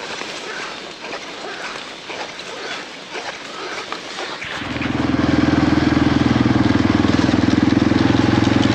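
Scattered clicks and rustling, then, about halfway in, a motorcycle engine suddenly comes in loud and runs at a steady speed.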